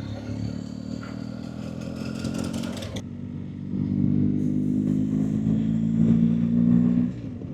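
BMW GS Adventure motorcycle engine running while riding at a steady pitch. It grows louder about four seconds in and drops back about a second before the end.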